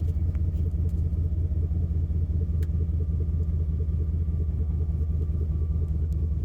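2004 Chevrolet Silverado 2500 pickup's engine idling steadily while it warms up, a low even rumble with a regular pulse.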